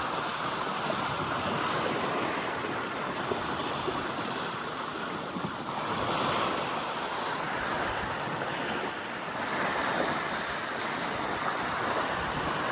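Water rushing and splashing past a sailboat's hull on a fast downwind run in a following sea, with wind across the microphone. The rush swells and eases every few seconds.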